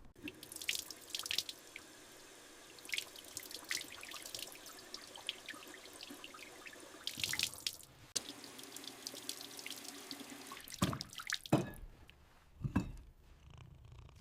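Water running steadily, with scattered drips and small splashes, then a few louder knocks near the end.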